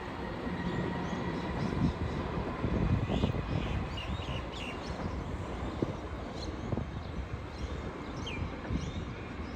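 Low rumble of a departing Alstom Comeng electric suburban train, with short high bird chirps several times from about three seconds in.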